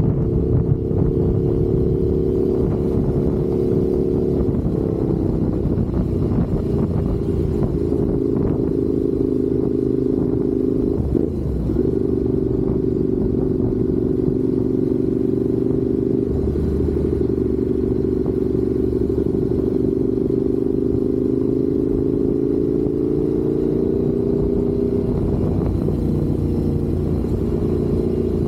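Motorcycle engine at steady cruising speed, heard from the rider's seat with low wind rumble. Its pitch shifts a few times, about 5, 11, 16 and 25 seconds in, as the revs change.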